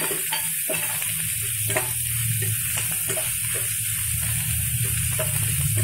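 Crushed garlic, tomato, onion, chillies and curry leaves sizzling in oil in a stainless steel kadai, with a steel spoon scraping and stirring against the pan over a steady low hum.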